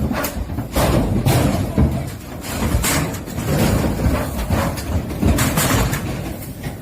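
Truck engine rumbling, with repeated knocks and bangs.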